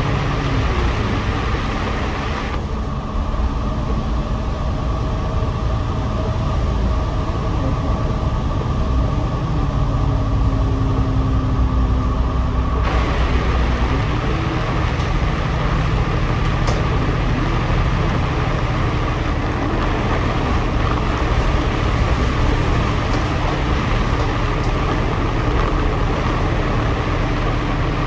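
Double-decker bus running, heard from the upper deck: a steady engine drone whose pitch rises and falls several times as it changes speed, over road hiss that grows stronger about halfway through.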